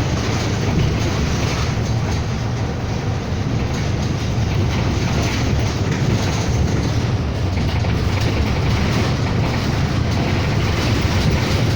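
Steady engine drone and cabin rumble inside a city bus, with a low hum under an even rattle and road noise.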